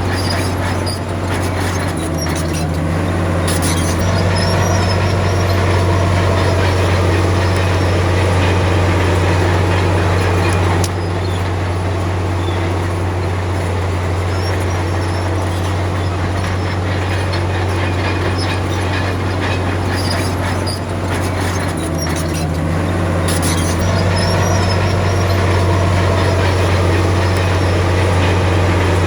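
Komatsu D53P crawler bulldozer working: the diesel engine drones steadily under load, with clanking and rattling from the steel tracks. The engine note shifts about two seconds in and again after about twenty seconds.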